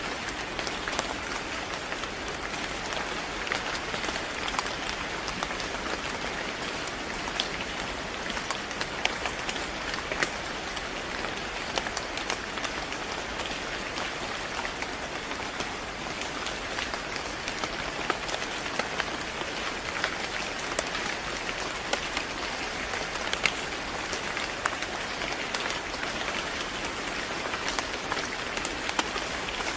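Steady rain falling: an even hiss dotted with frequent, irregular sharp drop ticks.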